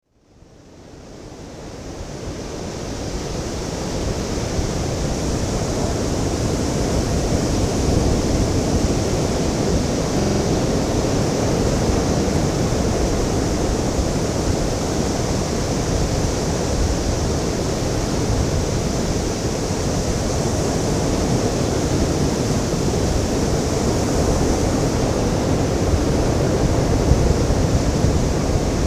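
Ocean surf, a steady rushing roar of breaking waves with no separate breakers standing out, fading in over the first few seconds.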